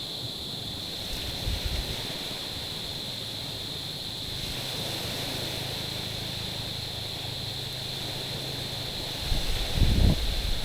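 Small waves washing on a pebbly shore under a steady high-pitched whine, with wind starting to buffet the microphone about nine seconds in.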